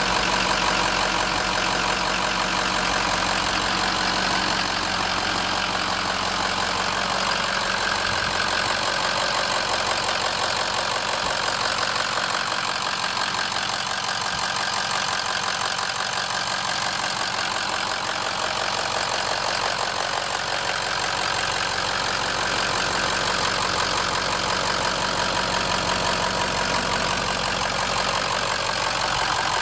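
2006 Ford F-250's 6.0 L Power Stroke V8 turbo diesel engine idling steadily.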